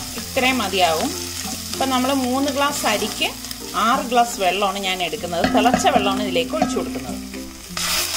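Sliced onions, green chillies and cashews sizzling in hot fat as a spatula stirs them in an enamelled cast-iron pot, under background music with a wavering melody. Near the end, water poured into the pot sets off a loud rush.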